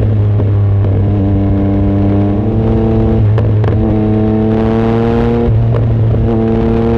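Yamaha MT-09 SP's three-cylinder engine under way, heard through an aftermarket exhaust with the baffle removed. The engine note climbs slowly and changes pitch abruptly several times, as with gear changes.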